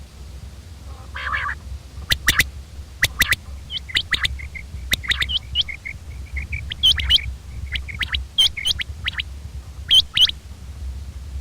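Common quail calling: short, sharp notes, often in quick pairs, repeated every second or so, with a softer run of quiet notes in the middle. A steady low hum lies underneath.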